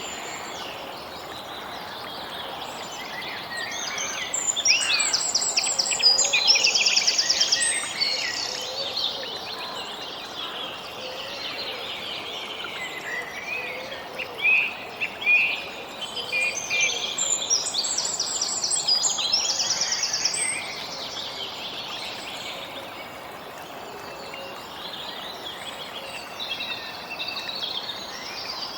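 Several birds singing and chirping, with quick repeated trills in two louder spells, over a steady outdoor background hiss.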